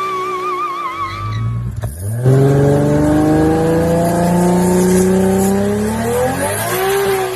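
Toyota Supra MK4's straight-six engine pulling hard under acceleration. Its pitch climbs steadily for several seconds, then revs sharply higher near the end before falling back. A short wavering squeal sounds in the first second and a half.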